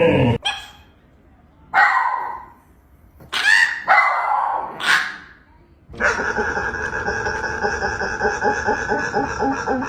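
A dog vocalising: four short calls, then, from about six seconds in, one long held call at a steady pitch with a fast flutter.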